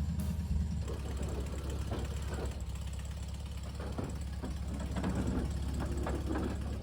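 1964 VW Beetle's air-cooled flat-four engine idling steadily shortly after a cold start, with a few scattered clicks and knocks over it.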